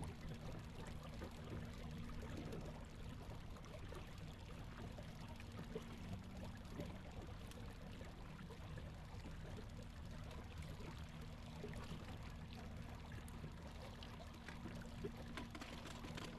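Faint, steady water trickling and lapping, with scattered light ticks.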